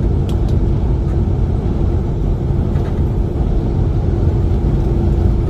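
Steady low drone of a semi-truck cruising on the highway, heard inside the cab: engine and road rumble with a constant hum and a few faint ticks.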